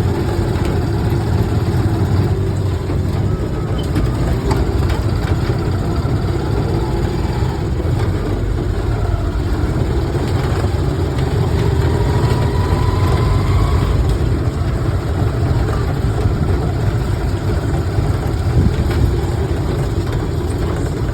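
Typhoon wind blowing hard, buffeting the microphone with a steady low rumble.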